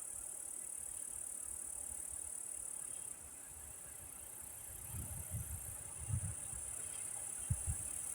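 Steady high-pitched chirring of crickets or grasshoppers in the grass. From about halfway through, faint irregular low rumbles and thumps sit beneath it.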